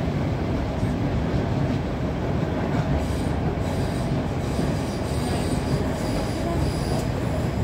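Class 455 electric multiple unit running at speed, heard from inside the carriage: a steady low rumble of wheels on rail, with faint high-pitched wheel squeal coming and going from about three seconds in.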